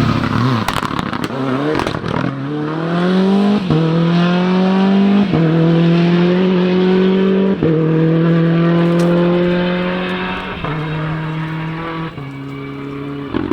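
A four-wheel-drive rally car's engine under full throttle, rising in pitch through several quick upshifts, each a sudden drop in pitch before it climbs again. After about ten seconds the note holds and fades as the car pulls away, with a couple of small steps down near the end.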